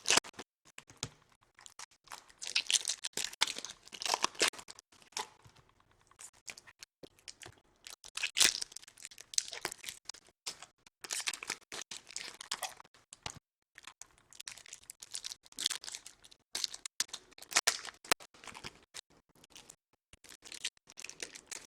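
Plastic and foil packaging on trading card boxes and packs being torn and crinkled, in irregular crackly bursts with sharp clicks and short pauses between them.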